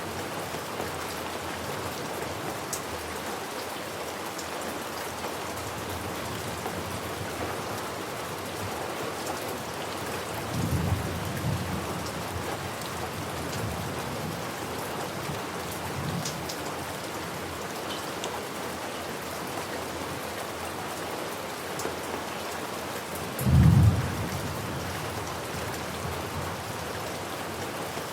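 Steady rain falling, with low thunder rumbling a few times; the loudest rumble comes near the end.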